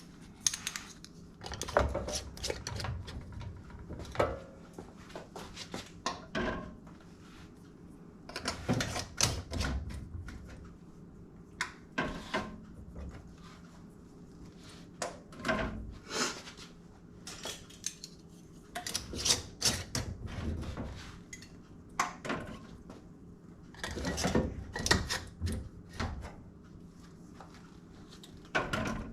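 Glass canning jars and their metal lids and screw bands clinking and clattering as the jars are handled and the bands screwed on fingertip tight. There are irregular clicks and knocks throughout, some with a dull thump as a jar is set down.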